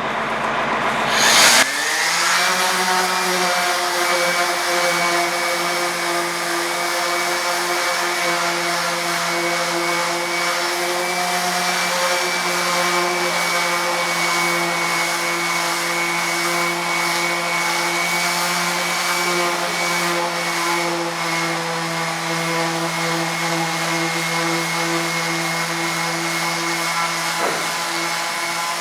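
Random orbital sander with 80-grit paper spinning up about a second and a half in, its whine rising to speed, then running steadily while sanding down fairing compound on a repaired wooden hull plank.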